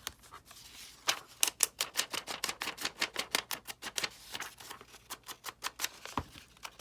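An ink pad being dabbed quickly and repeatedly along the edges of a piece of paper on a tabletop: a run of sharp taps, about five or six a second, with a couple of short pauses.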